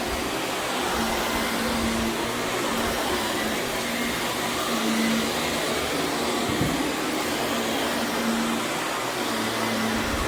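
Vacuum cleaner running steadily over Berber carpet, its noise wavering with a low hum that fades in and out. One short tick about six and a half seconds in.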